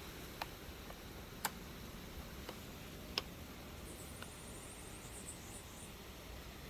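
A handful of faint, sharp clicks, about five spread irregularly over the few seconds, over a low steady hiss, with a brief high-pitched chirping trill about four seconds in.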